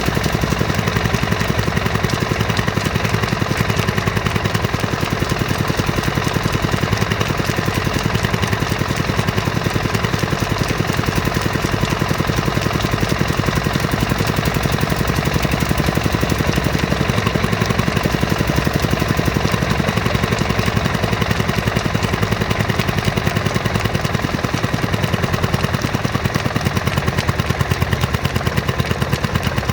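Lister 6 hp single-cylinder diesel engine running steadily, with an even, rapid firing beat.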